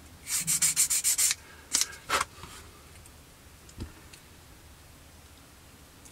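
Hand sanding of a small styrene plastic model-kit part with a sanding stick, in quick back-and-forth strokes of about eight a second. They stop a little over a second in, followed by two single strokes and a light tap.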